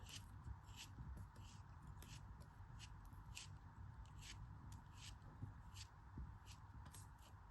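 A soft, crumbly block being cut in a series of short, crisp cuts, two or three a second and irregularly spaced, faint.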